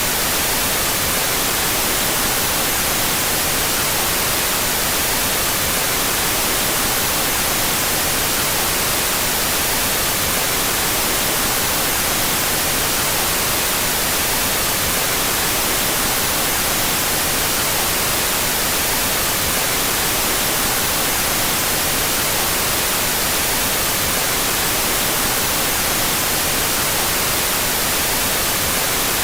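Steady, unbroken white noise with its stereo channels played out of phase: an even hiss, brightest in the high end, that never changes in level.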